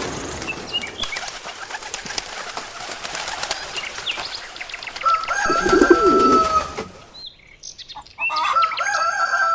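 Birds: a noisy rush like wings flapping fades over several seconds, with scattered chirps, then two long calls of about two seconds each, one near the middle and one near the end.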